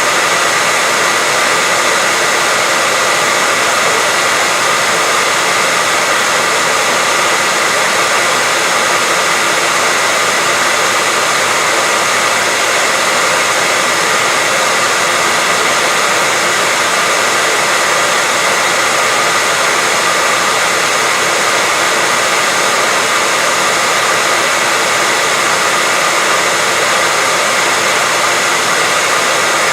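Steady white noise: an even, unchanging hiss across the whole range, strongest in the upper frequencies, with a faint steady tone running through it.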